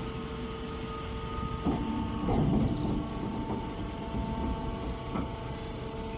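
Hydraulic hay baler running: a steady machine hum with a low rumble and a few knocks.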